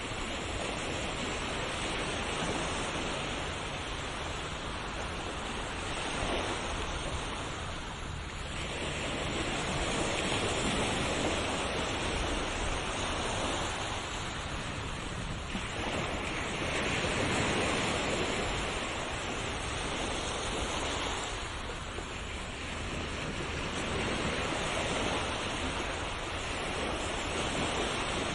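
Ocean surf: waves breaking and washing up the shore in a continuous hiss that swells and falls back every several seconds.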